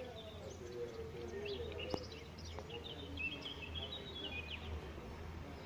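Small birds chirping in a quick series of short high notes over a steady low hum of background town noise, with a single sharp click about two seconds in.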